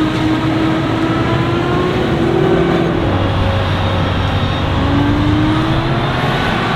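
Heavy farm machinery running steadily: a forage harvester chopping maize with tractors and silage trailers working alongside, several engine tones slowly rising and falling in pitch.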